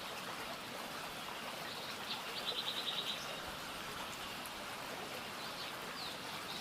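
A songbird singing a quick trill of repeated high notes a couple of seconds in, with a few scattered chirps, over a steady hiss of outdoor ambience.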